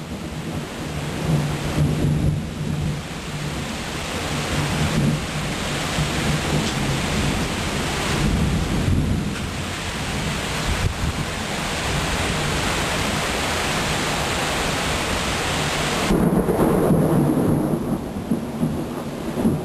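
Heavy rain pouring down during a thunderstorm, with thunder rumbling. The rain builds over the first few seconds, and a heavier low rumble comes in near the end.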